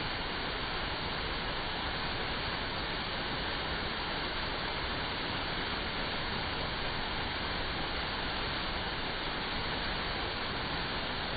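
Artificial waterfall pouring into a pond, a steady, unbroken rush of falling water.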